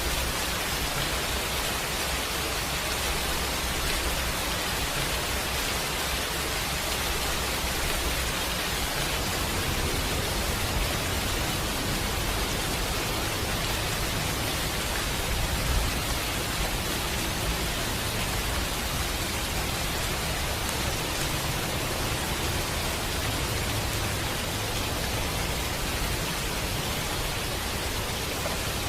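Steady rain falling, an even dense hiss with a low rumble beneath it, and one brief louder moment about sixteen seconds in.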